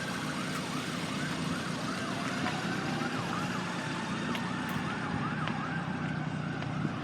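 An emergency vehicle's siren going in a fast rising-and-falling yelp, about two cycles a second, over a steady low rumble.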